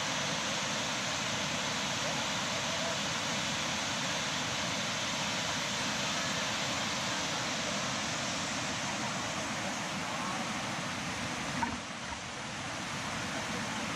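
Steady, even rushing noise with no distinct events, and one short click about eleven and a half seconds in.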